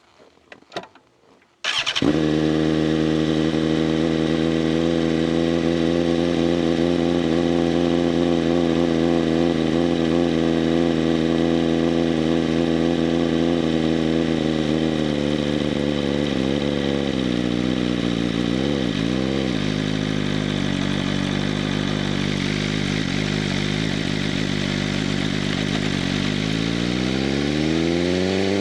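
A few light clicks, then a BMW M1000RR's inline-four engine fires about two seconds in and idles steadily through an SC-Project CRT exhaust, its idle easing down slightly as it settles. Near the end the revs rise smoothly.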